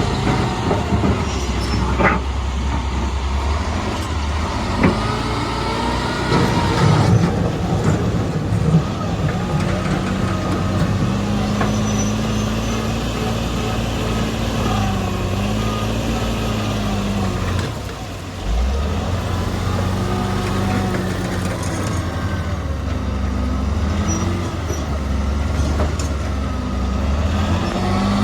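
Heavy diesel earthmoving machinery running, its engine revving up and down repeatedly as it works under load. A few sharp knocks come in the first several seconds, and the engine briefly drops off before picking up again about two-thirds of the way through.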